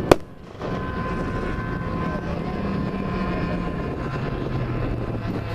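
Model aircraft engine running steadily, droning with a steady whine, after a single sharp bang just after the start.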